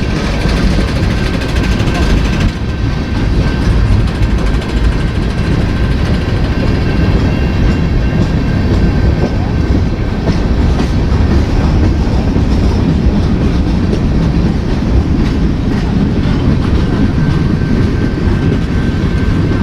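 Freight train rolling past: a loud, steady rumble of wheels on rail with some clickety-clack, and a faint steady ring above it.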